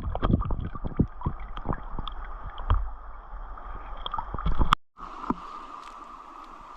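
Creek water sloshing and gurgling with scattered knocks and clicks, as of gear and feet moving in shallow water. Almost five seconds in, the sound drops out briefly and gives way to a steady, even hiss.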